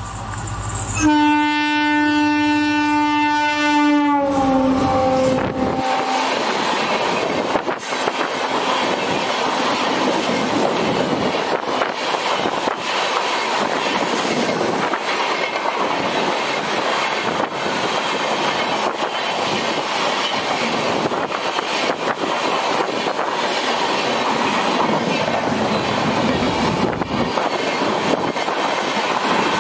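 WDP4B diesel locomotive's horn sounding for about three seconds, its pitch dropping as the locomotive passes. Then the coaches of the express run by at speed: a steady rushing noise with repeated wheel clicks over the rail joints.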